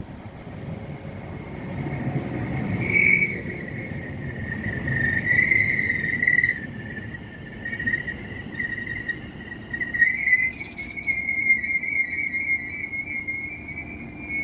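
A train in the station giving a long, high metallic squeal that wavers slightly in pitch, starting about three seconds in and running on, over the low rumble of the train moving.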